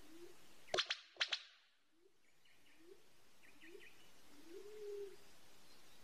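Forest birds calling. Two sharp double cracks come about a second in. Then comes a series of short, low hoots rising in pitch, the last one longer and steady, with faint high chirps.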